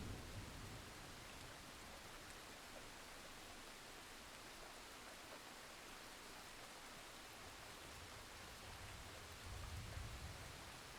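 Steady, faint rain hiss. A low rumble fades just after the start, and another rises and falls about nine to ten seconds in.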